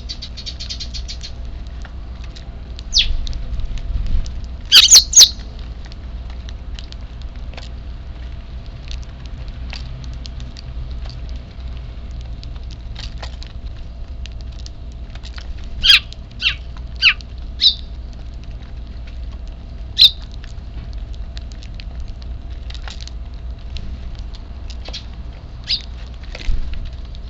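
Eurasian tree sparrows chirping: scattered short, sharp chirps over a steady low background hum, with a loud burst of three about five seconds in and a run of four around the middle.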